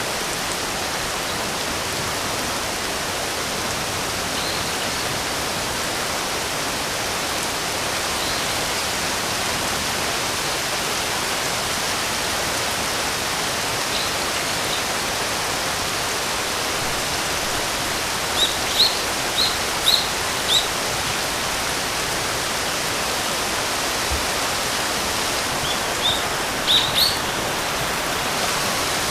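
Steady rain hissing without a break. A bird chirps over it in short high notes, a quick run of about five past the middle and another run of about four near the end.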